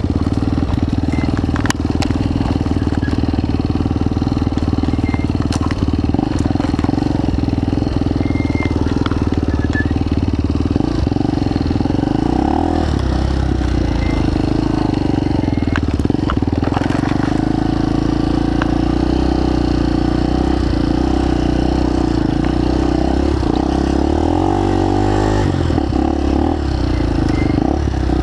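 Motorcycle engine running steadily, with brief shifts in pitch about halfway through and again near the end.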